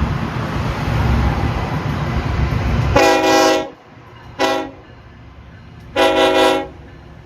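Diesel locomotive horn sounding three blasts, long, short, long, a multi-note chord. Before the horn, a loud steady rumble runs for about three seconds and drops away as the first blast begins.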